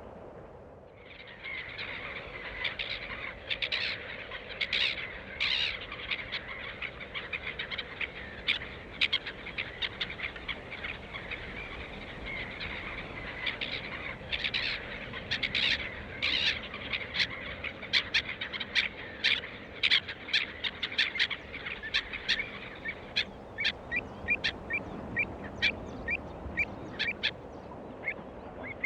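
Bird calls: a dense run of short, high calls, many overlapping, with quicker, sharper notes toward the end.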